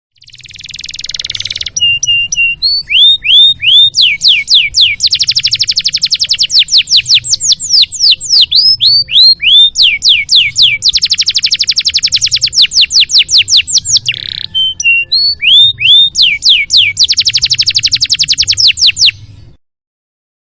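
Canary singing a long, full song: runs of repeated chirps and upward-sweeping notes broken by long, very rapid trills, with three drawn-out trill runs. It stops abruptly near the end.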